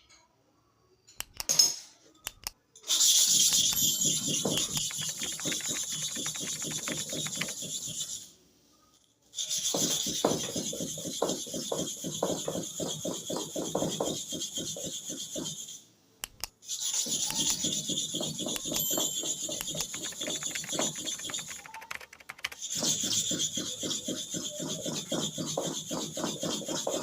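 A hair clipper blade rubbed back and forth in rapid strokes on a sharpening stone, a steady scraping in four long runs with short pauses between them.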